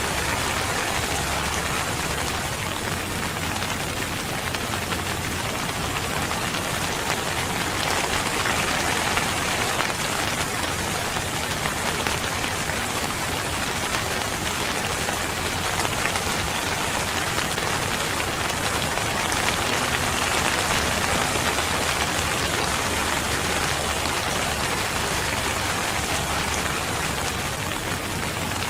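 Steady, even rain falling on surfaces, a continuous dense hiss with no distinct drops standing out.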